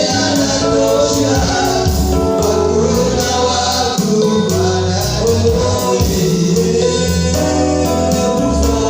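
Gospel worship music: a choir singing over a band with a steady bass line.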